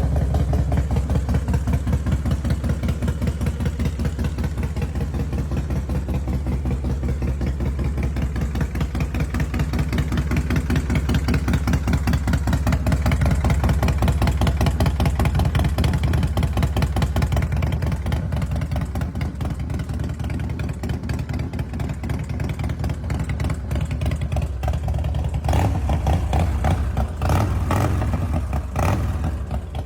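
2002 Harley-Davidson Heritage Softail's V-twin engine idling with an even, loping pulse. A few short throttle blips come near the end.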